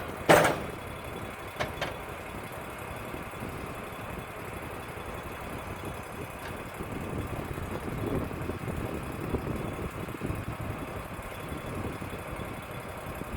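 Wood-Mizer LT35 sawmill's engine running steadily. A loud sharp knock comes just after the start, followed by two lighter clicks at about two seconds.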